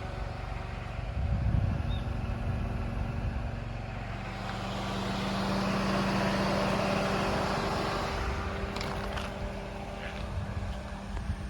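A passing vehicle: a steady engine hum and rushing noise swell up about four seconds in, peak, and fade away by about ten seconds. Wind buffets the microphone underneath.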